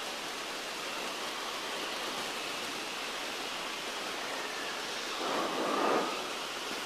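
Steady hiss of cabin noise in a single-engine Beechcraft Musketeer in level cruise, from the engine and airflow; it swells briefly about five seconds in.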